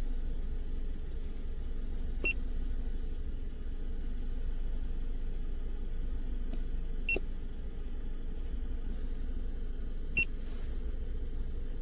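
Three short electronic beeps, a few seconds apart, over a steady low hum.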